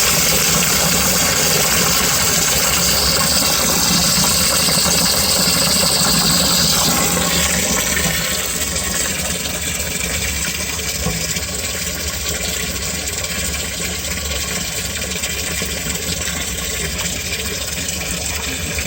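Water poured into a sump pit, a loud rushing splash that eases about seven seconds in. Then a sump pump running steadily with a low motor hum and moving water, kicked on by the float rising above its switch threshold.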